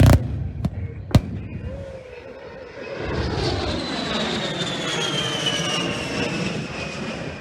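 Two sharp bangs in the first second or so, then the A-10 Warthog's twin turbofan engines swelling in as it passes low, with a high whine that falls steadily in pitch.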